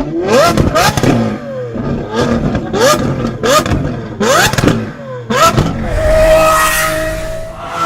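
Lamborghini engine revved in a string of quick throttle blips, each a fast rising pitch, with sharp exhaust cracks between them. About six seconds in the revs are held steady at a higher pitch for over a second.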